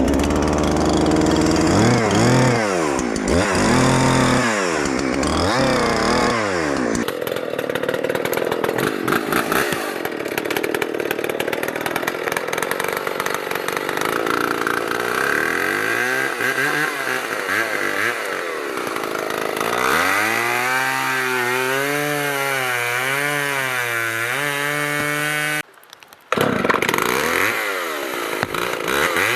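Chainsaw running and cutting, its pitch rising and falling again and again as it revs up and slows under load. It breaks off for about half a second near the end.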